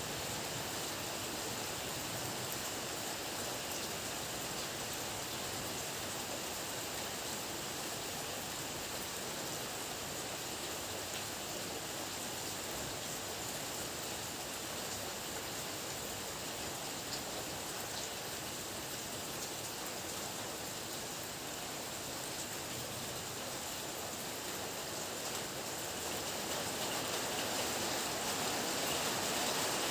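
Steady rain falling as a continuous even hiss, with faint drop ticks, growing a little louder near the end.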